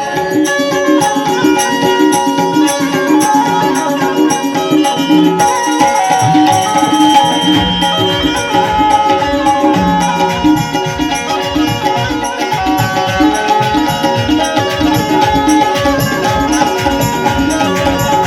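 Banjo playing a melody over a steady percussion rhythm.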